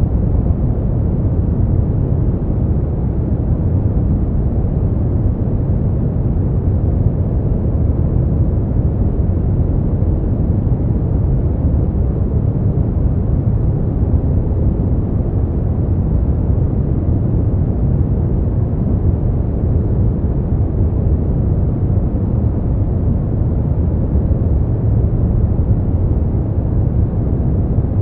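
Steady brown noise: a continuous deep rumbling hiss, strongest in the low end and fading out toward the highs, without any change or event.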